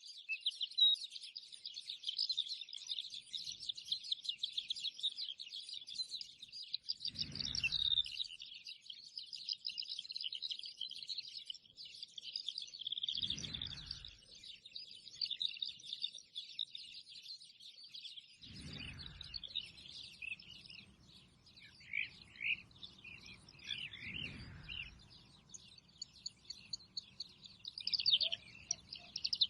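A dense chorus of many small birds chirping and twittering continuously. Four short low rumbles break in at intervals of about five to six seconds.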